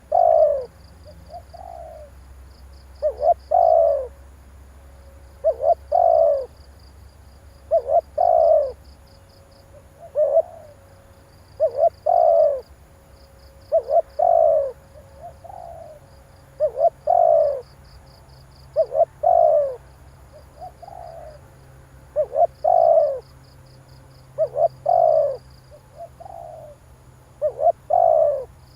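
Spotted dove cooing over and over, a short phrase of a few low notes about every two seconds. Faint rapid high chirping sounds between the phrases.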